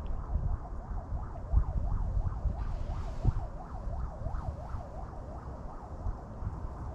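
Wind buffeting the microphone in a low rumble, with a fainter warbling tone over it that dips and rises about three times a second.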